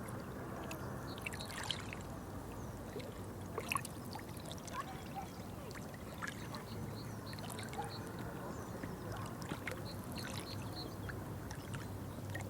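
Water trickling and splashing steadily, with many small drips and splashes and scattered short, high chirps over it.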